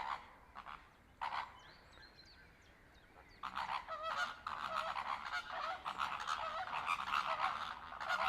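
A flock of flamingos honking and chattering: a couple of single calls in the first second or so, then from about three seconds in a dense, continuous clamour of many birds calling over one another, growing louder.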